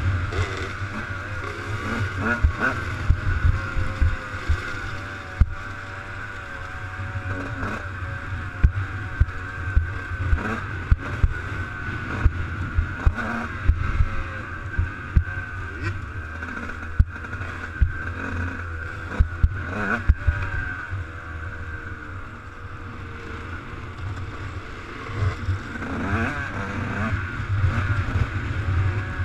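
Motocross bike engine running, its pitch wavering up and down, with frequent sharp knocks and a heavy low rumble throughout.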